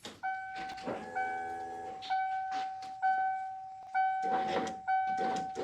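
A 1994 Ford F-150's warning chime repeating a steady beep-tone about once a second, which points to the ignition key being on with the driver's door open. Short knocks and rattles from hands working in the open door come in between.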